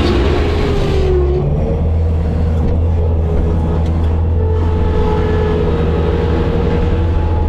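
Bobcat skid steer's diesel engine running steadily, with a brief rush of noise in the first second.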